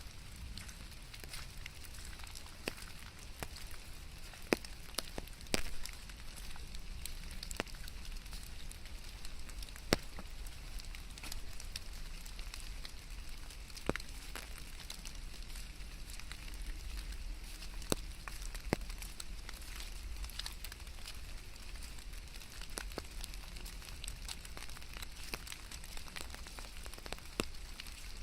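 Steady rain falling, an even hiss with a low rumble beneath it and scattered sharp clicks of individual drops striking nearby surfaces, a few of them louder.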